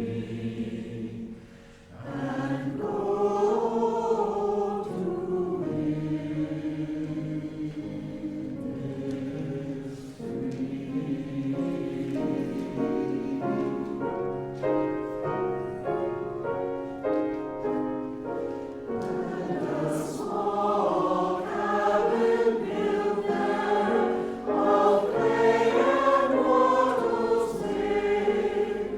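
A choir singing a choral piece in harmony, with a short breath pause about two seconds in and a passage of quicker notes in the middle, swelling louder in the last third.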